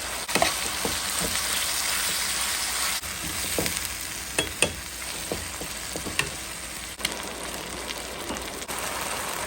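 Ground beef sizzling as it fries in a pan, with short scrapes and taps of a utensil stirring it now and then.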